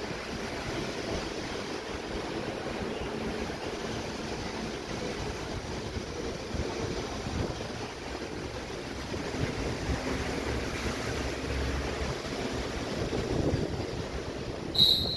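SRT Red Line electric commuter train approaching the station: a steady low rumble and rushing that grows a little louder in the last few seconds, with a short sharp high squeal near the end.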